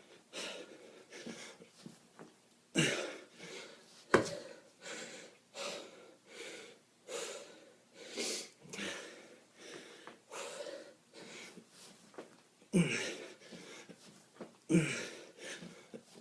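A man breathing hard and fast under exertion during a kettlebell workout, with short forceful breaths coming about once or twice a second. A few sharp knocks stand out, about three and four seconds in and again near the end.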